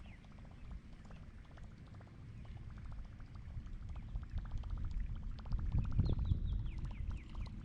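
Wind rumbling on the microphone, with a fast run of fine ticks from a fishing reel being cranked to retrieve a lure. The ticking grows denser in the second half, and short falling chirps come in near the end.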